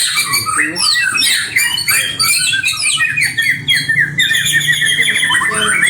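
Several caged songbirds singing at once: a dense, continuous tangle of quick chirps, rising and falling whistles and rapid trills.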